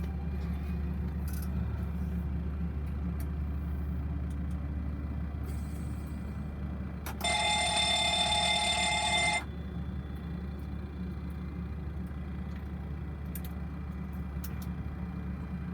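Steady low hum in a Boeing 737 cockpit. About seven seconds in, an electronic alert tone sounds for about two seconds and cuts off suddenly.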